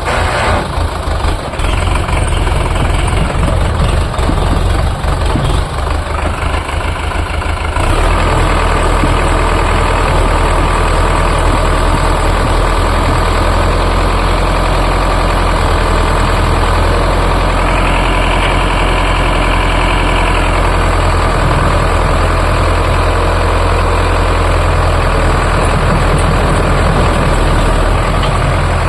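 Sonalika DI 750 tractor's diesel engine running at low speed with a rapid chugging beat, then about eight seconds in it picks up and runs louder and steady.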